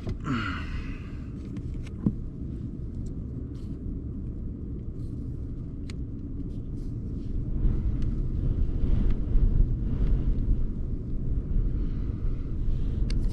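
Strong wind gusts buffeting and shaking a truck camper, heard from inside as a low rumble that swells and grows gustier about halfway through, with a few small clicks and knocks.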